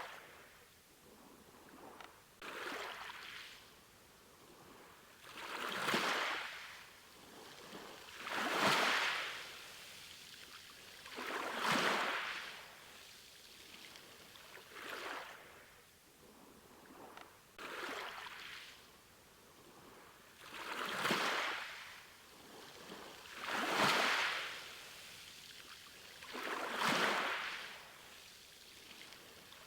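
Sea waves washing in and out on a shore, one soft swell of rushing water about every three seconds, rising and falling evenly.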